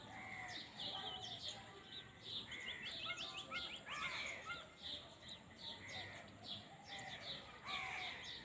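Several wild birds chirping and calling over one another, short high chirps and sweeps with a quick run of rapid chirps a little before the middle, and a few lower calls underneath.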